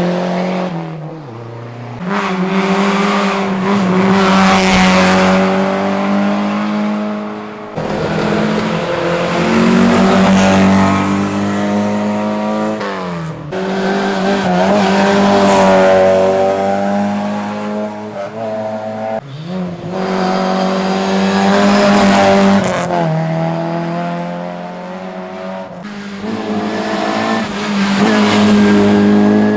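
Historic rally cars driven hard on a special stage, one after another in a run of short clips. Each engine rises and falls in pitch as it revs, shifts gear and drives past.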